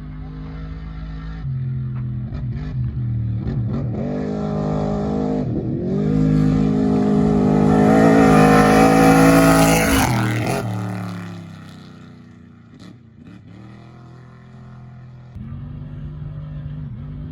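Off-road desert race vehicle accelerating hard past, its engine climbing to its loudest about eight to ten seconds in, then dropping in pitch and fading as it goes by. Another engine idles steadily at the start, and again from about fifteen seconds in.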